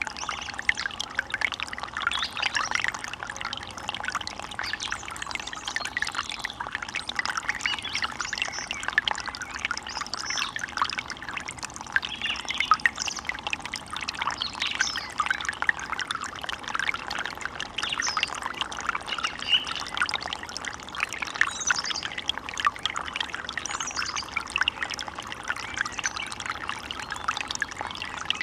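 Water running and gurgling steadily, as a shallow stream does over stones.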